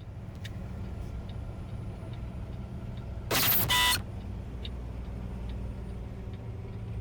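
Truck engine running steadily, a low hum heard from inside the cab, with faint regular ticks. A loud, short burst of sound breaks in about three seconds in, lasting under a second.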